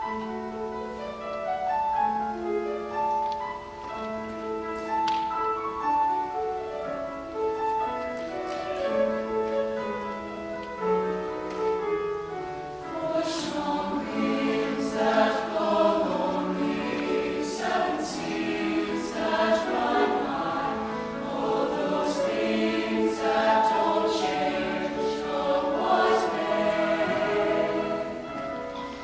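Choir singing a slow song in parts, with sustained, held notes; from about halfway in the voices grow fuller and the words come through more clearly.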